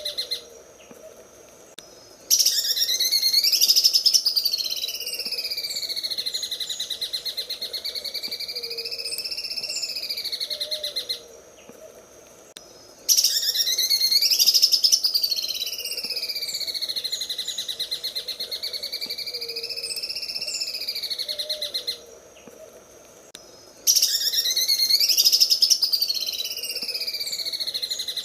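Green leafbird (cucak ijo) singing its 'sewing machine' song: a very fast, machine-like rattle that wavers up and down in pitch, in three long phrases of about nine seconds each with short pauses between them.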